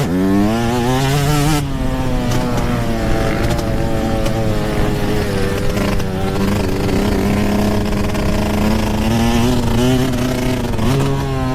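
Yamaha YZ125 two-stroke single-cylinder dirt bike engine under hard throttle. It revs up sharply in the first second and a half, then holds high revs with the pitch wavering as the throttle is worked. Near the end the revs dip and climb again.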